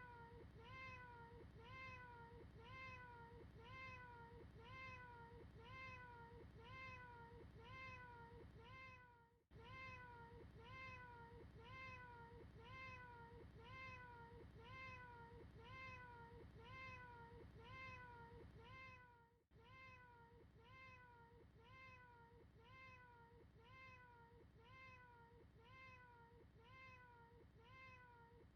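A short cat meow repeated over and over, about two a second, each call rising then falling in pitch. It cuts out briefly about every ten seconds, where the recording loops.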